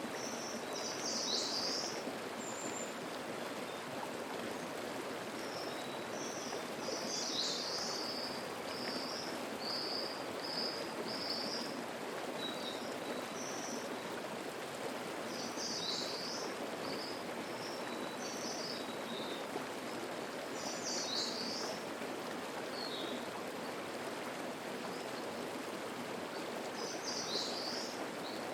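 Mountain stream (the Atera River) running over rocks in a steady murmur, with a songbird singing short, high phrases that recur every several seconds.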